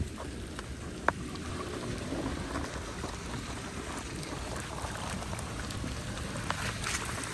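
Steady water noise with scattered small ticks and splashes, and a sharper click about a second in.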